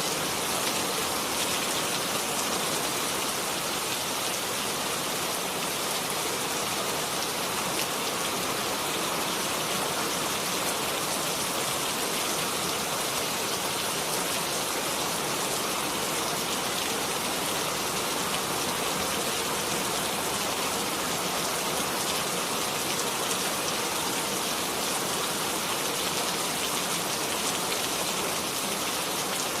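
Steady rain falling on a surface, an even, unbroken hiss of many drops with no change in intensity.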